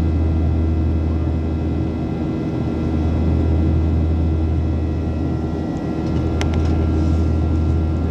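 Airliner cabin noise inside a Boeing 737 in its climb: a steady low drone from the CFM56 turbofan engines and rushing air, with thin steady whines above it. A short click comes about six and a half seconds in.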